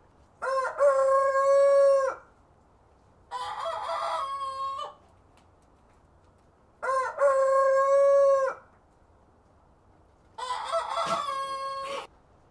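Rooster crowing: four long crows about three and a half seconds apart, each rising and then held. Loud crows alternate with quieter ones of a slightly different shape.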